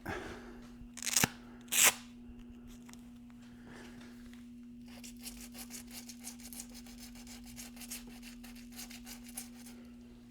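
Hand sanding of curb rash on an alloy wheel rim with 80-grit sandpaper on a rubber sanding block. There are two loud scrapes near the start, then a fast run of short rubbing strokes from about halfway.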